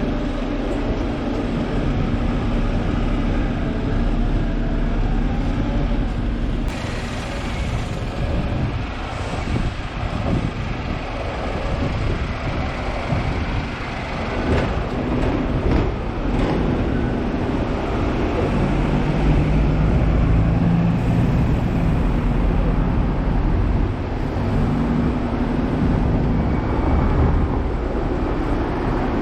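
Hong Kong double-decker electric tram running on its street tracks: a steady running noise from motors and wheels on rail, with a low hum that shifts in pitch as it goes.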